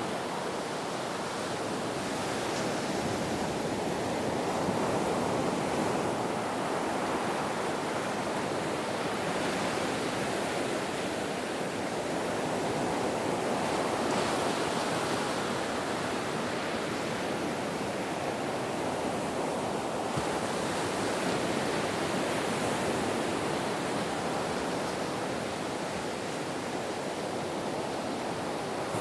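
Ocean waves: a continuous rushing wash of surf that slowly swells and eases.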